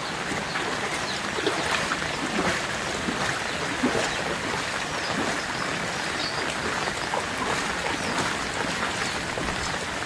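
Flowing floodwater rushing steadily, with short gurgles here and there.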